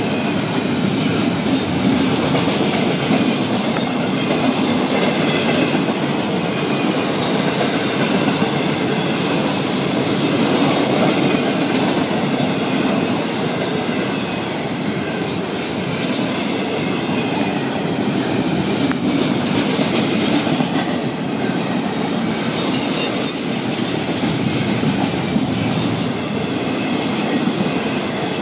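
Florida East Coast Railway double-stack container cars rolling past: a steady rumble of steel wheels on rail with clicking over the rail joints, and brief high wheel squeals now and then.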